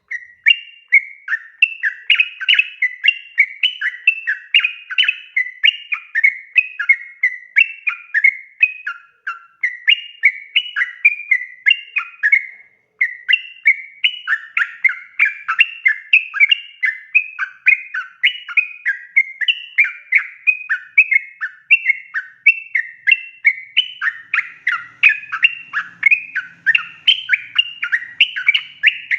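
Yellow-vented bulbul singing a long, continuous run of quick short notes, with a brief pause about halfway through.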